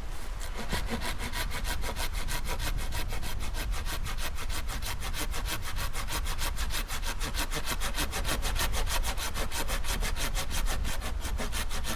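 Hand saw cutting through firewood with quick, even strokes, about six a second.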